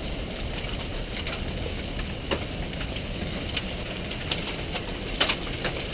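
Large hailstones pinging as they strike, heard as irregular sharp hits every half second or so over a steady wash of wind and rain noise.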